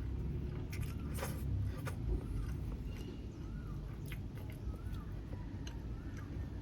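A bird calling over and over, short rising-and-falling notes about once a second, over a steady low rumble, with scattered sharp clicks.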